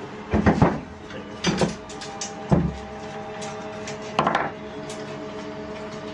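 Metal parts and tools being handled on a workbench: four separate bursts of clanks and knocks spread over a few seconds, over a steady hum.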